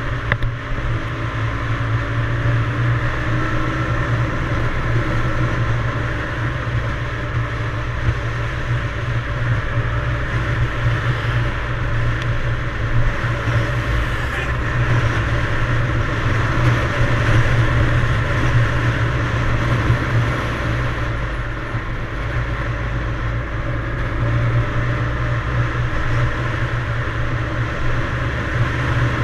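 Yamaha DT175's single-cylinder two-stroke engine running at a fairly steady speed while riding, over a steady rushing noise.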